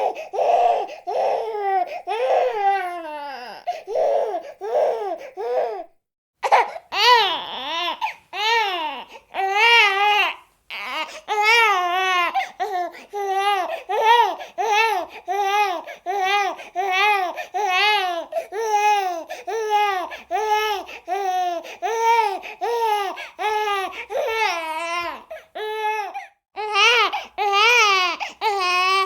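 Infant crying in short, rapid wails that rise and fall in pitch, one after another, with a brief break about six seconds in.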